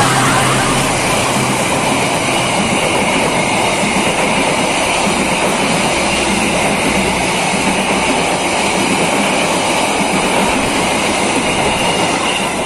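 KAI passenger train carriages rolling past at close range: a loud, steady noise of steel wheels running on the rails.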